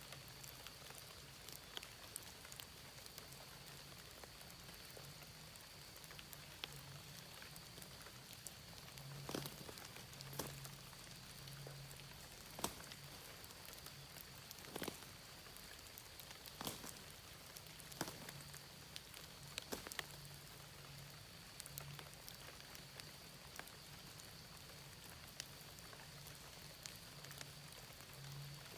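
Faint, scattered drips of rainwater after a shower, falling at irregular intervals with a few louder drops around the middle, over a steady high-pitched insect drone and a low, uneven pulsing hum.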